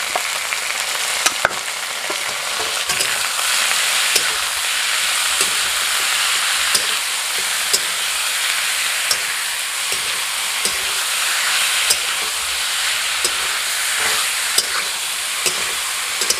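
Raw chicken pieces sizzling in hot oil in a steel kadai, just added, with a spatula scraping and tapping against the pan as they are stirred.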